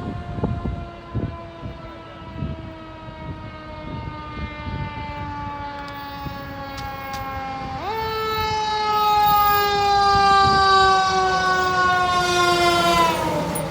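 Fire truck's mechanical siren slowly winding down in pitch. About 8 seconds in it is pushed back up sharply, coasts down again, then drops quickly near the end as it is braked. Vehicle rumble and a few knocks sit underneath.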